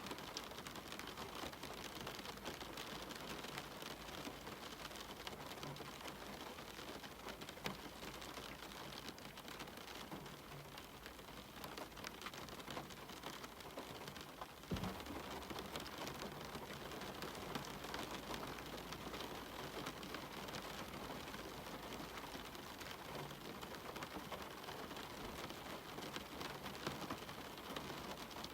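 Steady rain falling, an even hiss with scattered sharp ticks of single drops. About halfway through there is one brief knock, and after it the low rumble of the rain is a little fuller.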